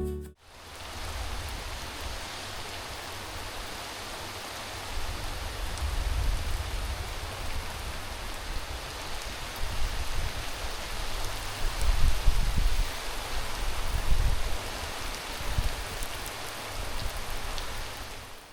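Steady rain falling, an even hiss of drops, with an uneven low rumble underneath that swells about twelve seconds in.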